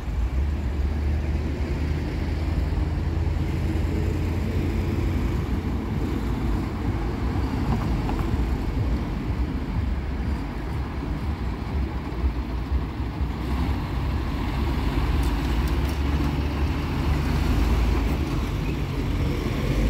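Road traffic noise: cars passing through a roundabout, a steady rumble of engines and tyres.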